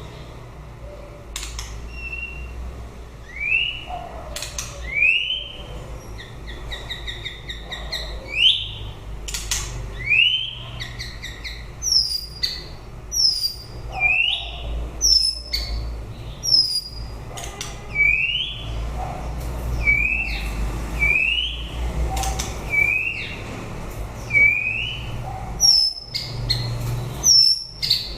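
White-rumped shama singing: a run of short, rising whistled notes, roughly one a second, mixed with higher thin notes and sharp clicks.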